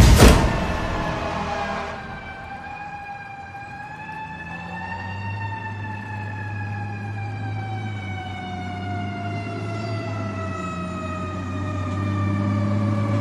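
A siren wailing: its pitch rises slowly, sinks slowly over several seconds, then begins to rise again near the end. A steady low hum runs under it from about five seconds in.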